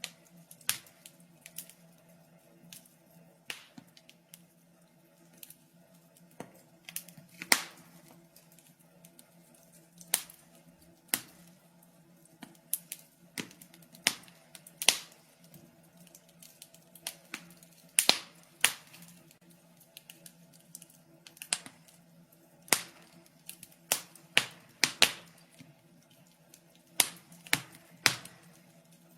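Wood fire crackling: irregular sharp pops and snaps, a few louder ones among many small ticks, over a faint low hum.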